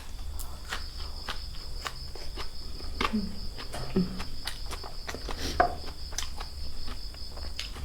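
Eating sounds: irregular sharp crunches and clicks of chewing and handling food, over a steady high insect trill like crickets.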